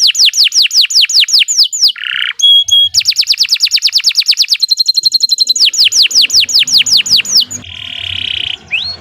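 Domestic canary singing a long, unbroken song: fast trills of falling whistled notes about seven a second, broken by a short harsh buzzy note about two seconds in, a pair of held pure whistles, and another harsh note near the end.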